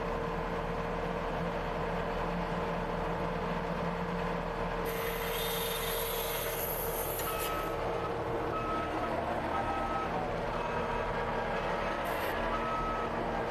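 CASE TR270B skid steer's engine running steadily, with its backup alarm beeping about once a second from about halfway through as it reverses. A burst of hiss is heard a couple of seconds before the beeping starts.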